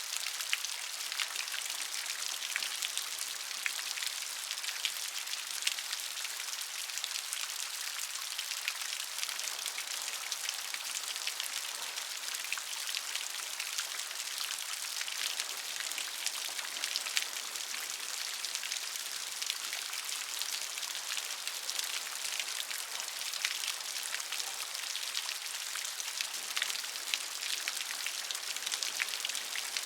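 Gentle rain falling steadily: a dense patter of individual drops over an even hiss.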